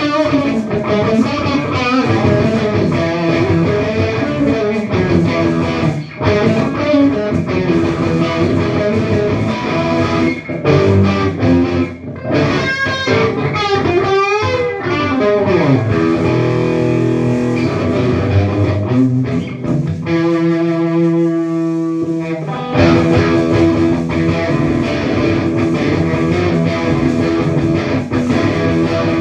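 Electric guitar played through effects, sustained notes with sliding, bending pitches around the middle and a stretch of quickly shifting, stepped tones later on.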